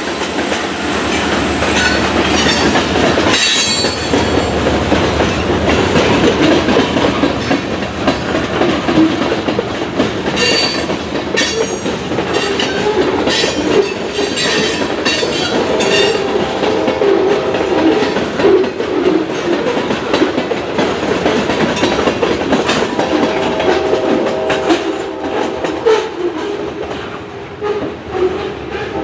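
Freight train rolling past, its car wheels clacking and clanking over the rail joints in a steady rumble, with faint squealing tones in the second half.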